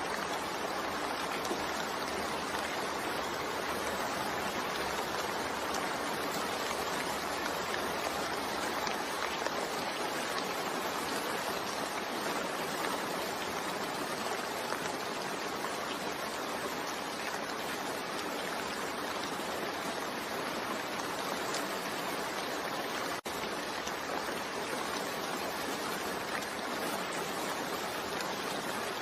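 Steady rain mixed with white noise: an even, unbroken hiss. It drops out for a split second about 23 seconds in.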